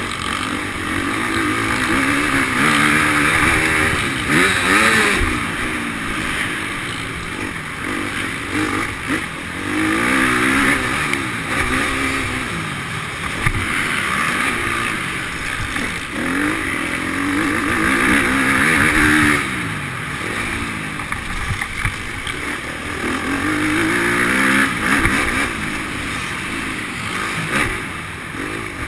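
Motocross motorcycle engines revving up and dropping off over and over, the pitch rising and falling every couple of seconds.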